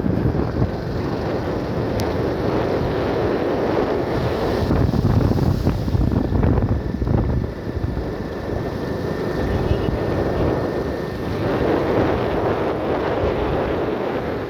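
Wind buffeting the microphone: a dense, rumbling rush that swells and eases, with a faint thin whine through the middle.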